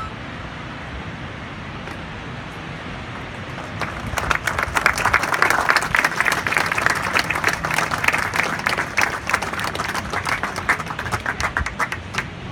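A crowd applauding, breaking out about four seconds in and thinning toward the end, over a steady background hiss.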